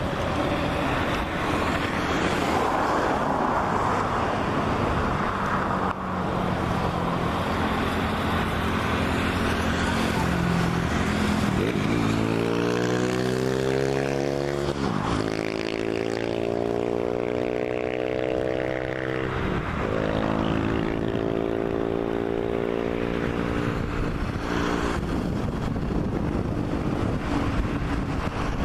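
Boeing 737 MAX 8's CFM LEAP-1B turbofan engines running loud and steady as the jet passes, with a swirling, phasing sweep in the sound for several seconds midway.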